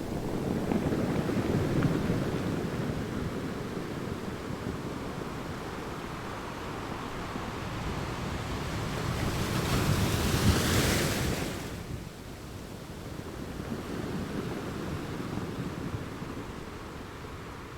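Sea waves washing in, in slow surges: one swell near the start, a larger one building to a hissing peak about ten seconds in that falls away sharply, then a softer swell.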